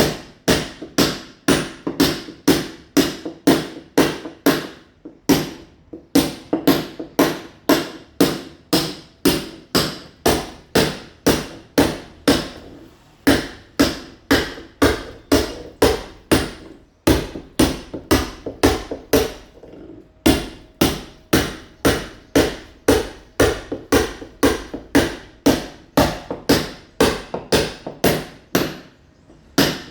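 Mason's hammer blows chipping a masonry wall to roughen it for ceramic tile, a steady run of sharp strikes about two to three a second, broken by a few brief pauses.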